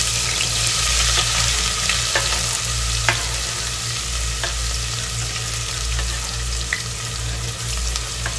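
Chopped onions sizzling in hot sunflower oil in an aluminium pot: a steady frying hiss, with a few light clicks as more onion and then sliced green chilli are scraped in from a cutting board.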